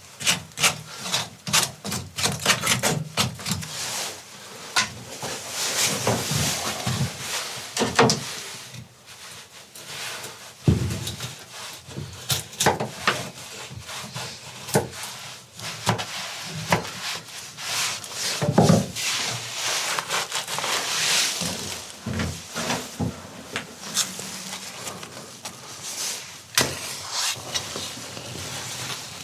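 Irregular rubbing and scraping on wood, with scattered clicks and knocks and a couple of louder thumps.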